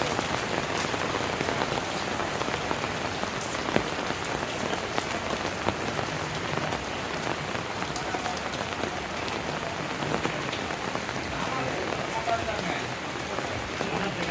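Steady rain falling, with a dense hiss and the sharp ticks of individual drops landing on hard surfaces close by.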